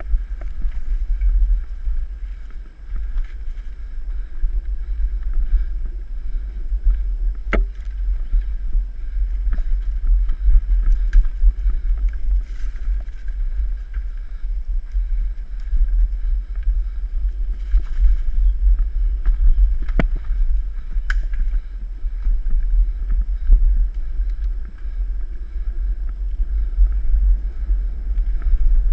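Wind and riding vibration buffeting a mountain bike's camera microphone, a steady low rumble, with a few sharp knocks as the bike goes over bumps on the trail.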